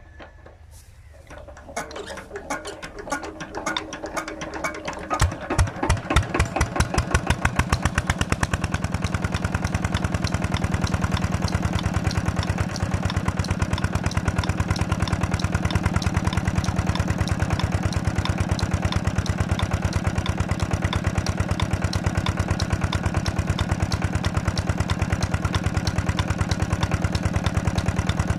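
Petter diesel tubewell engine being started: slow strokes quicken over the first few seconds, the engine catches about five seconds in with loud separate firing beats, then picks up speed and settles into a steady, even running beat.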